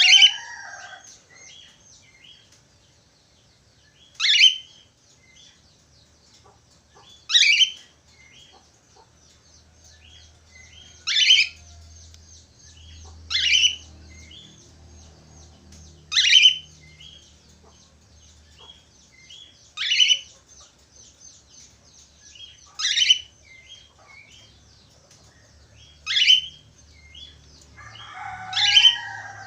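Budgerigars (Australian parakeets) warbling in a steady, fast, high chatter. A loud, sharp call that sweeps downward in pitch cuts through it about every three seconds.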